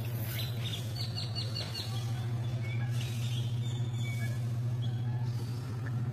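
Small birds chirping, with a quick run of high descending chirps about a second in and scattered single chirps after, over a steady low hum.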